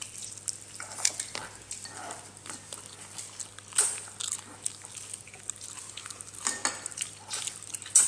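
Spoon clinking and scraping against a dish in scattered, irregular taps as a baby is fed.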